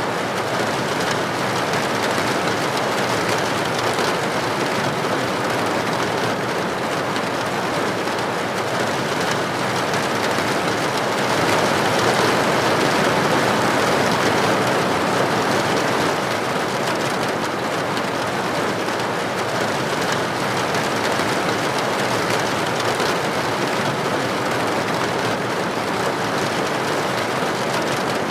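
Steady rain falling on a hard surface, a dense even hiss that swells slightly around the middle.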